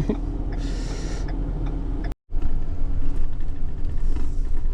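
Steady engine and road rumble of a moving truck heard from inside the cab, with a faint steady hum. About two seconds in, the sound cuts out completely for an instant, and the rumble comes back a little louder.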